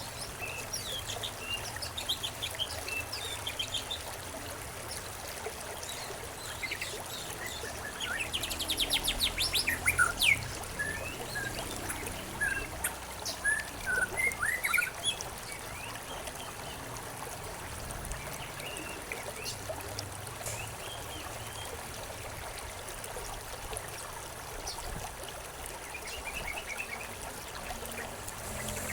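Several small birds chirping and calling over the steady sound of a trickling stream. A rapid trill about eight to ten seconds in is the loudest part.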